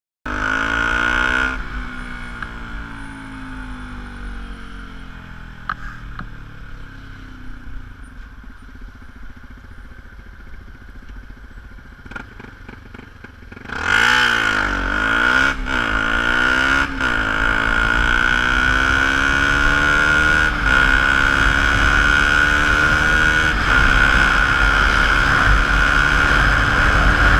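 Yamaha WR125X single-cylinder 125 cc four-stroke engine, through a Leo Vince LV One Evo II full exhaust. It starts briefly at high revs, then its note falls slowly for about twelve seconds. About fourteen seconds in it goes to full throttle and louder, with the revs climbing and dropping back at each of several gear changes.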